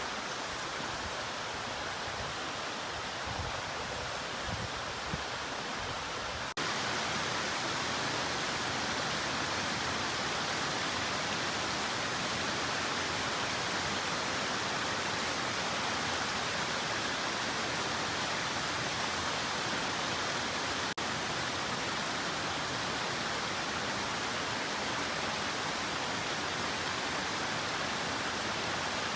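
Steady rush of flowing water, an even hiss across all pitches. It becomes louder and fuller about six and a half seconds in, then cuts out for an instant about two-thirds of the way through.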